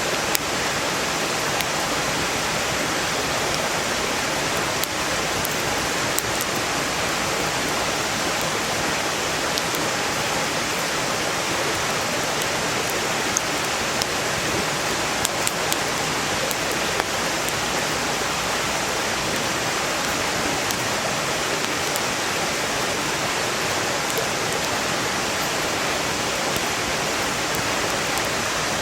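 Mountain stream rushing steadily, with occasional faint crackles and pops from burning firewood.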